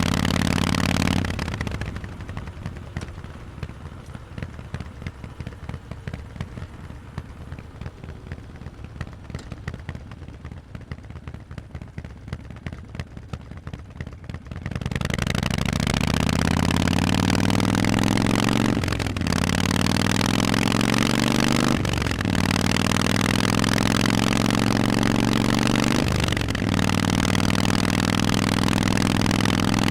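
Harley-Davidson Forty-Eight's air-cooled V-twin through Vance and Hines exhausts. It runs loud for a moment, then drops to a quiet, uneven idle. About halfway through it pulls away, rising in pitch, with three quick gear changes before settling into a steady cruise.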